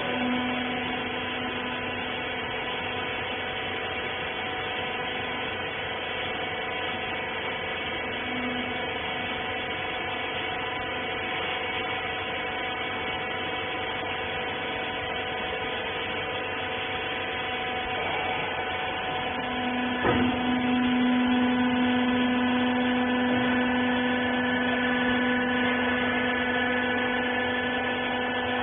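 Hydraulic baler's electric motor and pump running with a steady hum. About 20 seconds in there is a click, and the hum then gets louder, with a stronger low tone.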